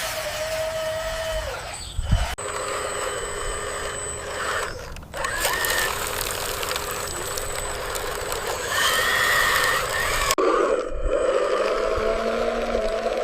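Small electric motors and gearboxes of RC construction vehicles whining under changing load, over a gritty hiss, with abrupt changes of the sound twice.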